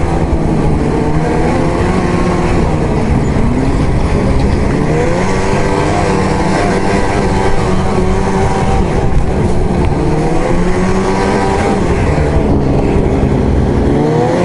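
Arctic Cat ZR 8000's 800 C-TEC two-stroke twin engine running under throttle while riding. Its pitch rises and falls several times as the throttle is opened and eased off.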